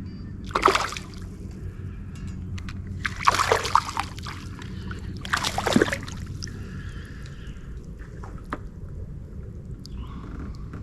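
Water splashing as a hooked fish thrashes at the surface beside the kayak while being brought in, in three short bursts: about a second in, around three and a half seconds, and near six seconds.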